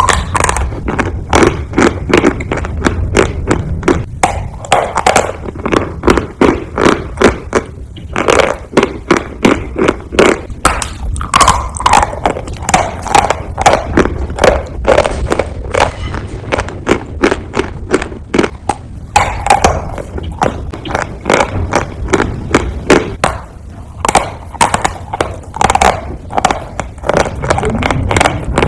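Compressed chalk tiles crunching and crumbling: a rapid, uneven run of crisp cracks and crackles in bursts, with short pauses between them.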